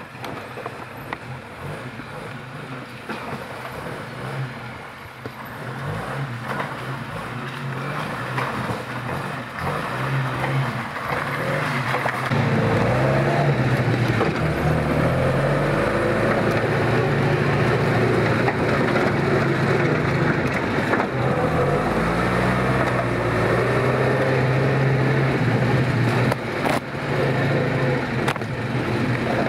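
Off-road 4x4 engine running and being worked, its revs rising and falling, getting louder from about six seconds in and loud from about twelve seconds on.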